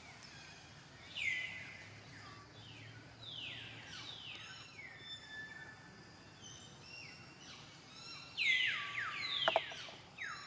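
Birds calling: repeated high calls that sweep down in pitch, several overlapping and loudest near the end, over a faint steady hiss.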